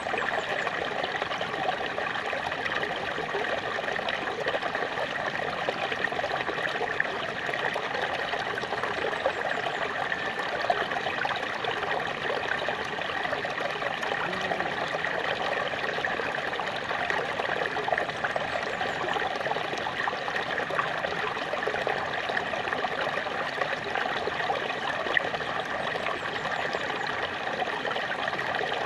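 A small waterfall: water splashing and trickling steadily, with small splashes and drips, unchanging throughout.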